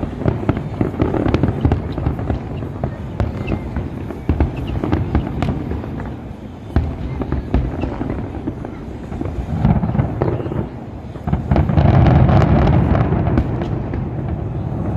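Aerial fireworks display: a steady barrage of bangs and crackling over a low rumble, building to its loudest, densest stretch about twelve seconds in.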